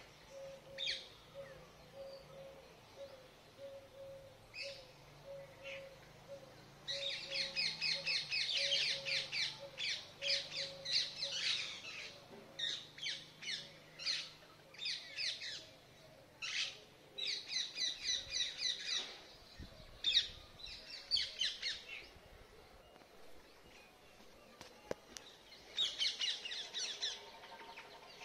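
Wild birds calling: bursts of rapid, high, harsh chirps in quick series, loudest and densest about a third of the way in and again near the end. Under them, in the first half, a soft low note repeats about twice a second.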